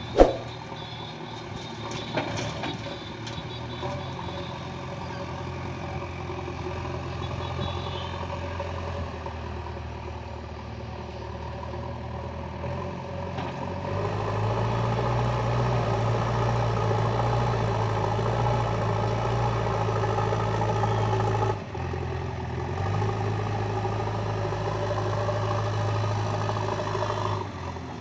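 JCB 3DX backhoe loader's diesel engine running steadily, then revving up under load about halfway through. It drops off sharply for a moment and works hard again until shortly before the end. A single sharp clank right at the start.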